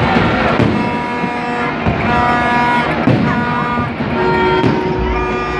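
Many horns tooting at once, overlapping steady tones at different pitches, some short and some held. Occasional sharp bangs sound through them.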